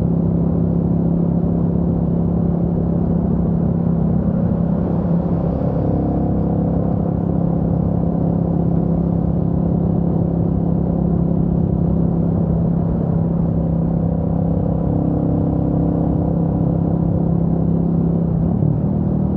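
Royal Enfield Meteor 350's single-cylinder engine running steadily under way, heard from the rider's position. Its pitch rises slightly near the end.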